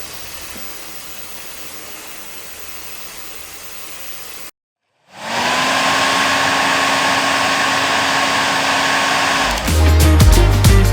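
Two hair dryers running in turn. First comes a quieter, even blowing hiss. After a brief silence a louder dryer starts, its pitch rising briefly as the motor spins up, then settling into a steady whine and hum over the rush of air. It stops about nine and a half seconds in as music comes back.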